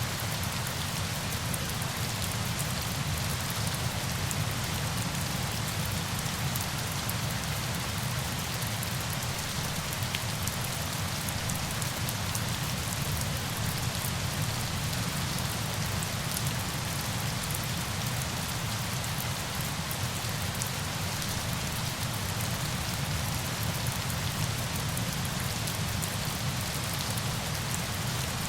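Steady falling-water noise: a dense hiss with fine crackling patter on top and a low rumble beneath.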